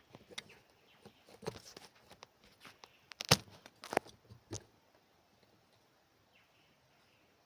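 Irregular rustling, crinkling and light knocks of things being handled by hand, with a sharp knock about three seconds in and another just after.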